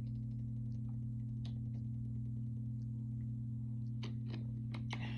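Steady low electrical hum at two pitches, with scattered faint small clicks that come more often about four seconds in.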